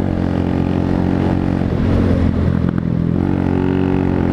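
Small 125cc motorcycle engine running under way. Its note dips about halfway through, then climbs again as it accelerates near the end.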